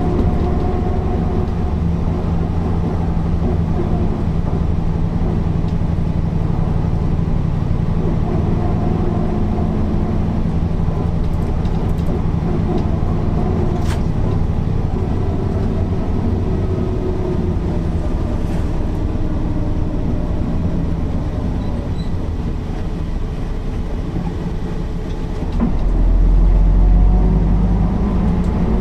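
Mercedes-Benz O408 bus's inline-six diesel engine running under way, its pitch drifting slowly with load. About 26 seconds in, it gets louder with a deep bass as the engine pulls harder and its pitch rises.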